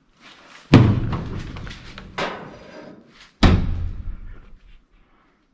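Two heavy slams about three seconds apart, each dying away over about a second, with a lighter knock between them.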